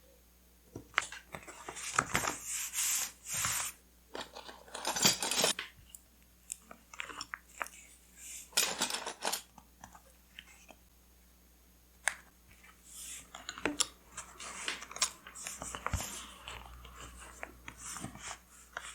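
Paper and stationery being handled close up: bursts of crinkling and rustling paper with small taps and clicks between them.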